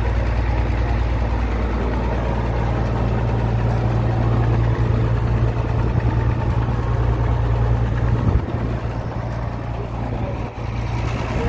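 Fordson E27N tractor's Perkins P6 six-cylinder diesel engine running steadily with an even low hum.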